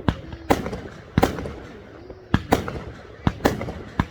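A fireworks display with aerial shells bursting in quick succession, about eight sharp bangs in four seconds, each trailed by a short echo.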